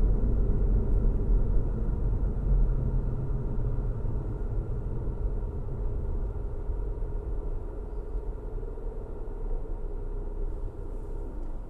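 Car driving on a road: a steady low rumble of engine and tyres, slowly getting quieter through the stretch.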